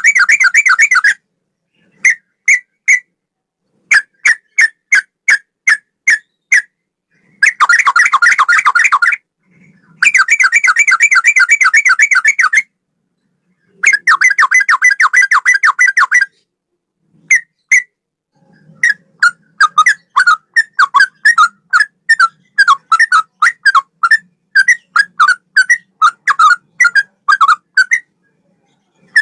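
Yellow-vented bulbul (trucukan) singing a clear, loud song in the straw-headed bulbul style: bursts of fast rattling chatter a second or two long, broken by short groups of separate notes, then a long run of quick notes at about three a second.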